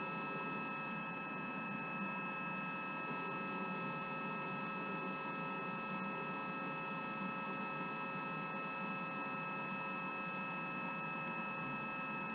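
Steady electrical whine: several fixed high tones over an even low hum, with no change in pitch or level.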